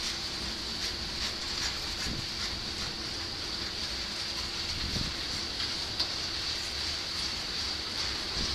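Covered hopper cars of a freight train rolling past: steady wheel-on-rail noise with faint, irregular clicks.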